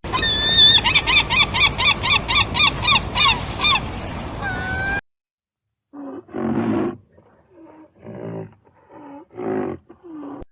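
Animal calls from two separate clips: first a rapid run of repeated chirps, about three a second, over background noise. After an abrupt cut come about six short separate calls with pauses between them.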